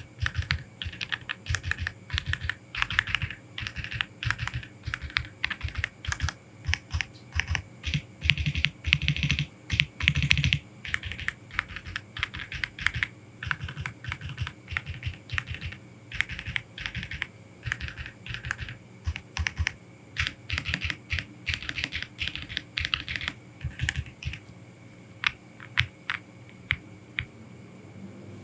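Aula F87 Pro mechanical keyboard being typed on in quick runs of keystrokes, slowing to single, spaced key presses near the end.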